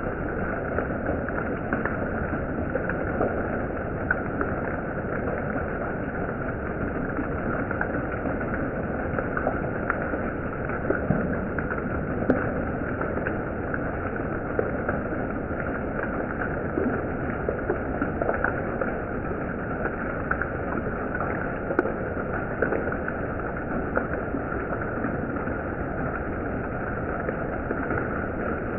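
Steady heavy monsoon rain falling, with many scattered sharper drops and patters through it.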